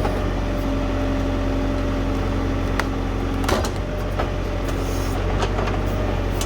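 Diesel tractor engine running steadily, with a held hum over it that stops about halfway through, as a couple of sharp knocks sound.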